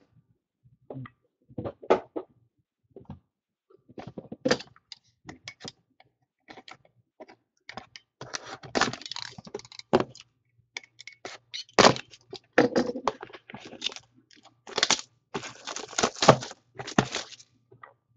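Trading-card packaging and cards being handled at close range: irregular crinkling, tearing and sharp clicks and taps as a box and its wrapping are opened, with denser bursts of rustling about halfway through and again near the end.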